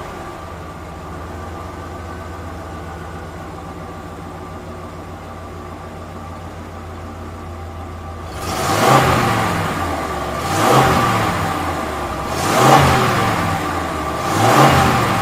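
Vehicle engine running steadily at a low hum, then revved four times, each rev swelling and falling away, about two seconds apart.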